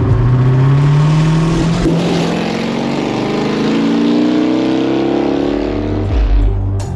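Engine accelerating hard, its pitch rising steadily for about five seconds before falling away near the end.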